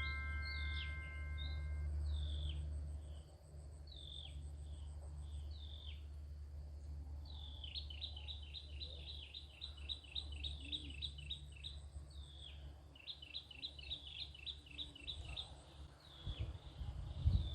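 Birds calling outdoors: repeated short, falling high notes, with two runs of rapid trilled notes in the middle and later. A low steady rumble sits underneath and fades about halfway through.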